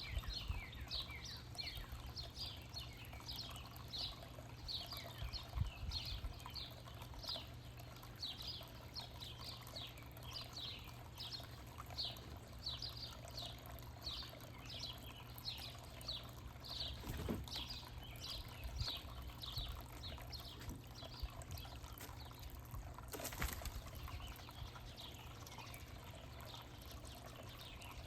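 A songbird calling over and over in short, high notes that slide downward, about two a second, thinning out in the last few seconds, over a steady low rumble.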